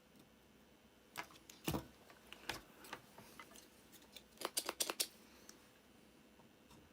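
Sharp clicks and taps of small hand tools while capacitors are desoldered from a power supply circuit board: one louder snap with a dull knock under it at about a second and a half in, a few scattered ticks, then a quick run of about six clicks near the five-second mark.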